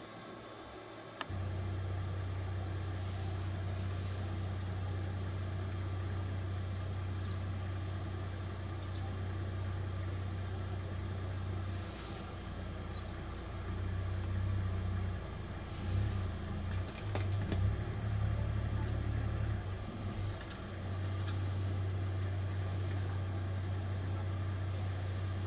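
A vehicle engine idling, heard as a low steady hum. It sets in abruptly with a click about a second in and wavers unevenly for several seconds in the middle.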